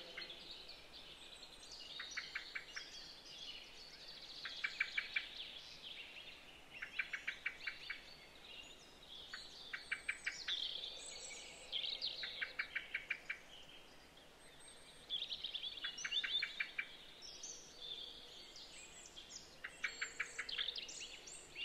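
Birdsong: short, rapid trills repeated about every two seconds, with higher chirps and whistles between them, faint over a low hiss.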